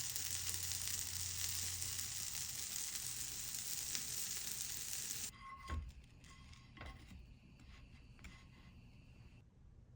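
A steady hiss for about the first five seconds, which cuts off abruptly; a quieter stretch follows with a few light clinks and taps.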